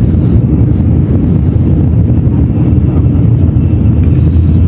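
Loud, steady low rumble of a Shinkansen bullet train running at speed, heard from inside the passenger cabin.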